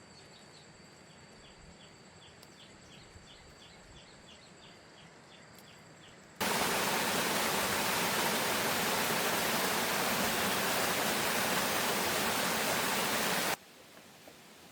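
Heavy rain pouring down: a loud, steady rush of water that starts abruptly a little before halfway and cuts off suddenly near the end. Before it, faint chirps repeat about two to three times a second over a quiet background.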